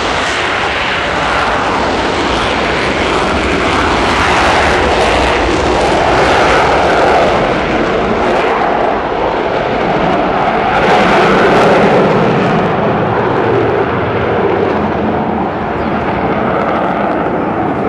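Avro Vulcan B2's four Rolls-Royce Bristol Olympus 201 turbojets at takeoff power: a loud, continuous jet roar that swells twice and eases slightly near the end.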